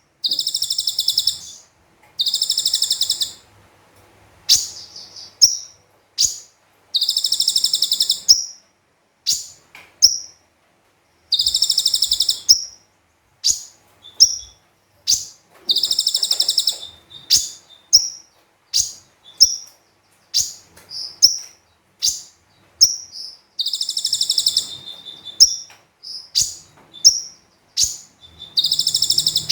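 Kolibri ninja (Van Hasselt's sunbird) singing in rapid bursts. Buzzy high trills about a second long alternate with quick sharp chips and short whistled notes, repeated over and over.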